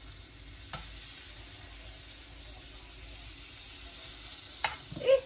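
Butter sizzling steadily in a hot wok over low heat. There is a faint click about a second in, and a couple of sharp utensil knocks against the pan near the end.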